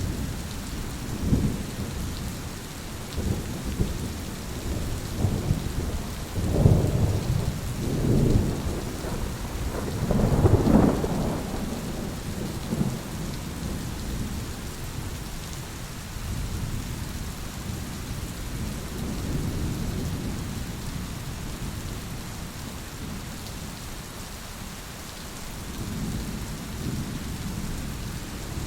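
Thunderstorm: steady rain with rolling thunder, a run of deep rumbling peals in the first half, the loudest about 7 and 11 seconds in, then fading to softer rumbles under the rain.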